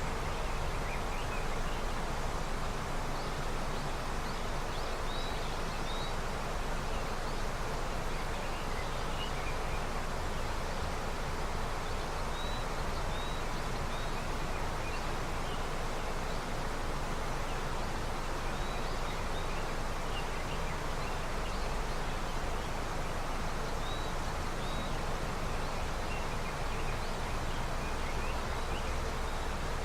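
A river swollen with snowmelt rushing steadily, with small birds chirping faintly in short pairs of high notes every few seconds.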